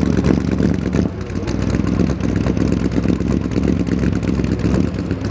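Shelby 427 Cobra's aluminium-head Ford 427 side-oiler V8, on dual four-barrel carburetors, running steadily at idle.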